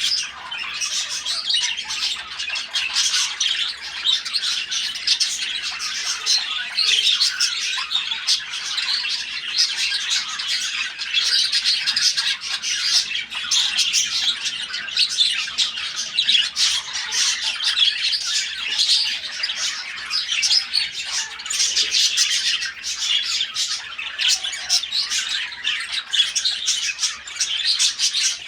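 A flock of lovebirds chattering and squawking continuously, many shrill calls overlapping without a break.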